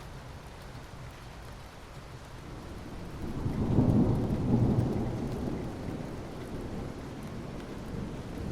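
Steady rain with a low roll of thunder that swells about three seconds in and fades away over the next few seconds.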